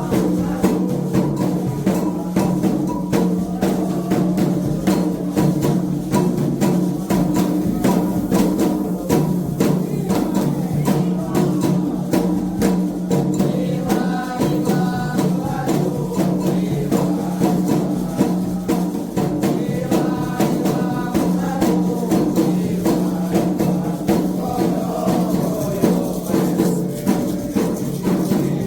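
Candomblé ceremonial music: drums and other percussion playing a fast, dense, steady rhythm, with voices singing at times over it.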